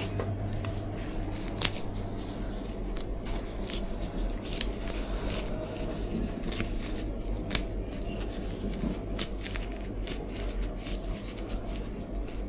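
Scattered light clicks and rustles of a cake box and its packaging being handled, over a steady low hum.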